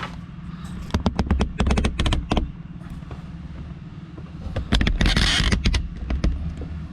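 Plastic dash trim panel of a 2006 Honda Element being handled and fitted back into place: a quick run of clicks and knocks, a short scraping rustle about five seconds in, then a few more taps.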